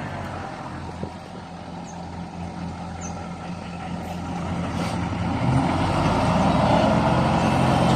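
Heavy diesel engine running steadily, growing louder from about five seconds in as it comes closer or takes on load.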